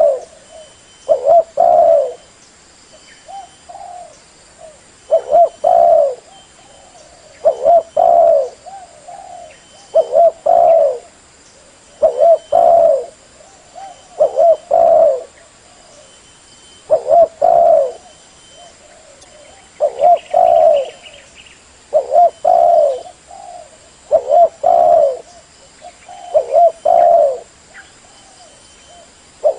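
Female spotted dove cooing: a short, loud, multi-note coo phrase repeated about every two to two and a half seconds, a call used to lure other doves.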